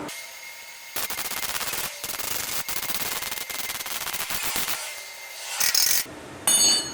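Metalwork on a car muffler: a dense, rapid crackling rasp for about four seconds, then two short, louder hissing bursts near the end, the last with a high whine.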